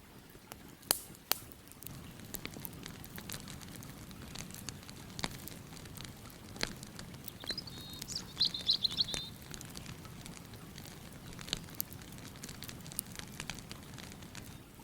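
Campfire crackling, with scattered sharp pops over a steady low rush. A bird chirps a quick run of notes about halfway through.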